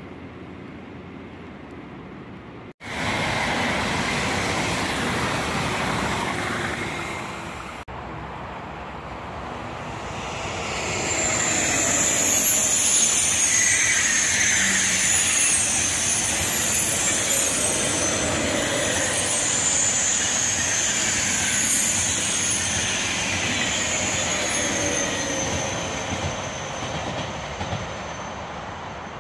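Double-deck TGV high-speed train passing at speed: a steady rush of wheels on rail and air, with a high whine and slowly falling whistling tones. It builds up about ten seconds in and eases near the end. Before it, shorter clips of train noise cut off abruptly about three and eight seconds in.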